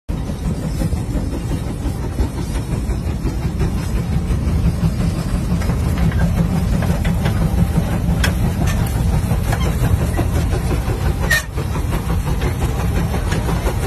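Case 150 steam traction engine working under load, pulling a plow: a steady, dense rumble of its running, with a sharp click about eleven seconds in.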